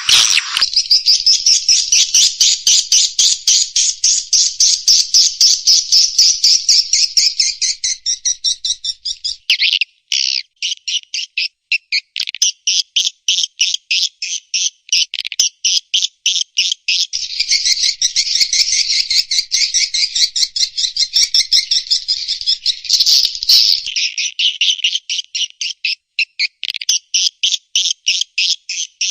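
Swiftlet call recording of the kind played to lure swiftlets into a nest house: rapid, high-pitched chirps several a second in dense runs, breaking briefly about ten seconds in and again near the end.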